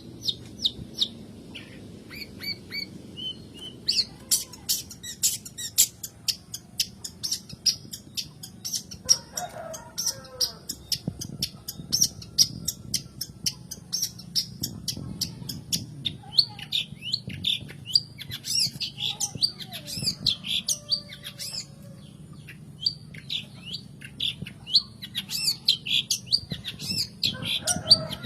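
Long-tailed shrike singing a fast, varied song. It starts with a rapid run of dry clicking notes, then moves into harsh, high chattering phrases, with a few lower calls mixed in.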